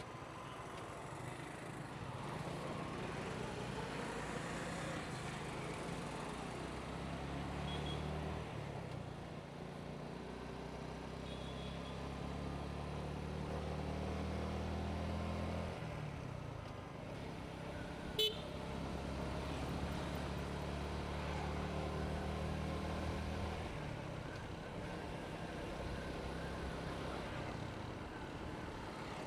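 Motorcycle engine running while riding, over road and wind noise. Its low hum shifts in pitch several times as the speed changes, dropping sharply about sixteen seconds in. A brief sharp sound stands out about eighteen seconds in.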